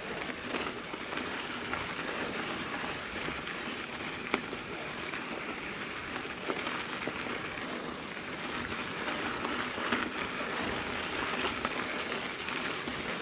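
Mountain bike tyres rolling over a dirt and gravel trail on a climb: a steady rough noise with scattered small clicks and knocks, one sharper knock a little past four seconds in.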